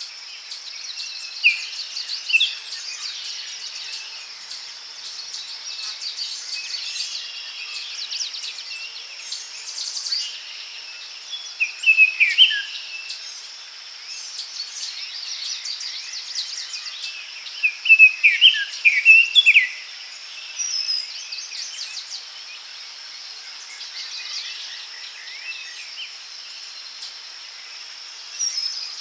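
Daytime forest ambience: birds calling and singing over a steady high insect drone. The bird song comes in short chirps and warbling phrases, loudest a little under halfway through and again about two-thirds of the way in.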